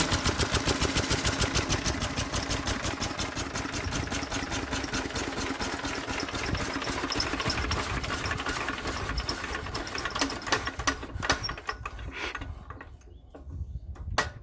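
1936 International Harvester LA single-cylinder stationary engine running with rapid, even firing strokes after its gasoline has been shut off, then slowing and sputtering to a stop about twelve seconds in as it runs out of fuel. A single sharp click comes near the end.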